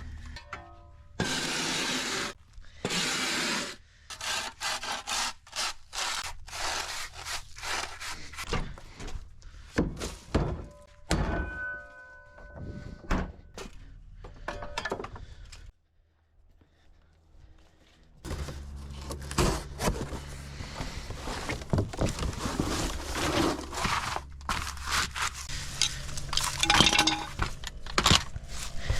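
Repeated knocks, clunks and scrapes of hand tools and metal parts during work on an automatic transmission, with a near-silent pause about two-thirds of the way through and denser, busier noise after it.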